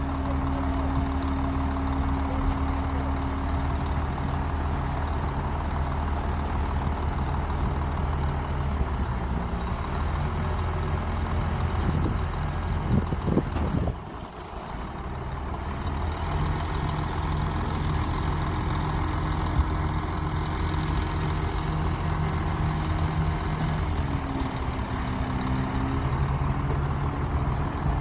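Komatsu D60P bulldozer's diesel engine running under work, its engine note shifting in pitch several times. Halfway through the sound drops suddenly and builds back up over a couple of seconds.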